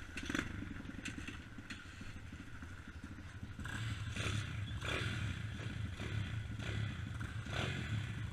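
Dirt bike engine running at idle, getting louder about three and a half seconds in, with scattered clattering knocks.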